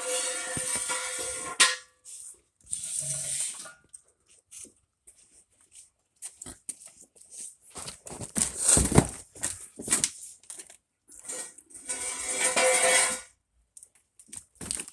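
Metal clanking and knocking of tools against car exhaust parts, with two longer noisy bursts, one at the start and one about two-thirds through, and a cluster of loud knocks in the middle.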